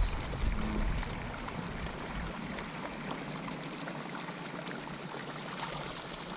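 Steady rush of water pouring into the pond from an inflow after rain, with some low rumbling during the first couple of seconds.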